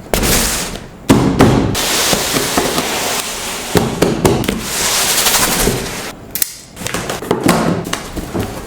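Packaging being handled during an unboxing: loud crinkling and crackling of plastic and cardboard, with scattered knocks and taps and a brief lull about two-thirds of the way through.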